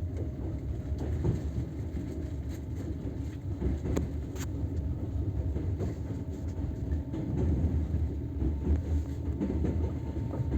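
Train wheels rolling on the rails with a steady low rumble, and occasional sharp knocks from wheels passing over rail joints.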